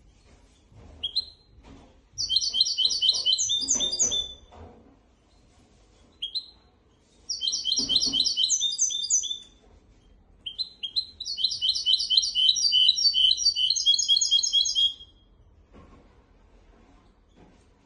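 Hybrid finch singing: three phrases of fast, rapidly repeated high chirping notes, the last and longest ending about three seconds before the end, with a short single note before the first two.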